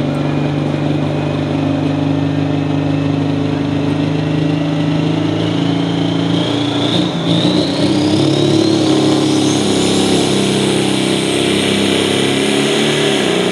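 Pro stock pulling tractor's Riverside diesel engine running hard, its note steady at first and then shifting about halfway through, as a high whine climbs steadily in pitch.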